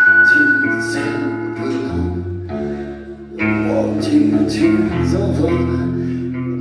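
Live band playing amplified music: guitar and bass with regular drum and cymbal hits and a singer, the bass notes shifting every second or so.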